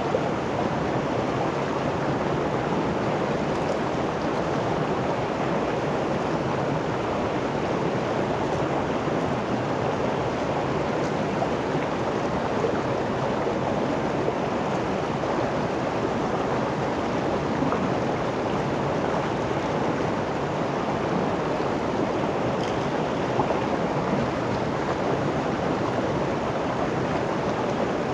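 River water rushing steadily, an unbroken even wash of flowing water.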